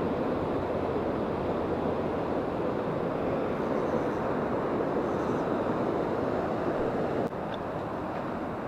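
Mountain river water rushing steadily over rocks, easing a little near the end.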